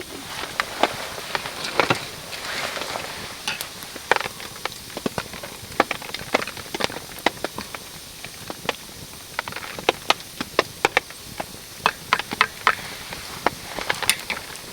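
Rain pattering on a camping tarp mixed with a wood campfire crackling: irregular sharp ticks and pops over a steady hiss, the hiss swelling softly about two seconds in.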